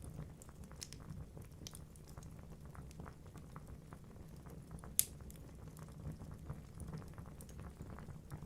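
Wood fire burning in a fireplace: a low steady rumble of flames with irregular crackles from the burning logs and one loud, sharp pop about five seconds in.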